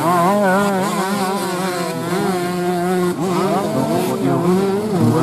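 Several off-road racing motorcycle engines revving, their pitch rising and falling as the riders work the throttles, with a quick climb in revs about three seconds in.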